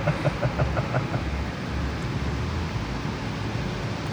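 Automatic car wash running, heard from inside the car: a steady hiss over a low, pulsing hum.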